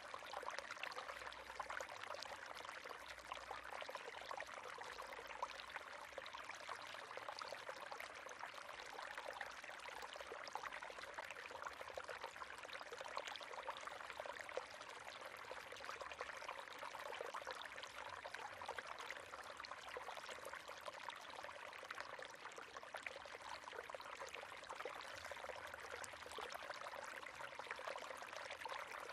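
River water running steadily over rocks, a continuous splashing and trickling rush with many small fine splashes.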